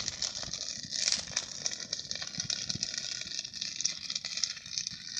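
Campfire crackling, with many small irregular snaps and pops over a steady hiss.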